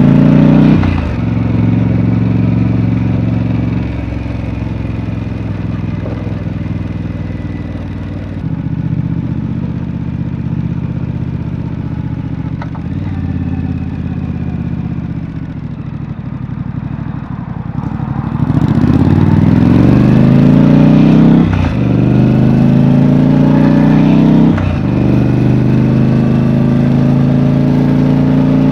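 Triumph Street Scrambler's 900 cc parallel-twin engine through its stock exhaust, ridden on the road. It pulls up through the gears with a short break at each shift, eases to a lower, quieter run in the middle, then accelerates hard again with two more shifts near the end.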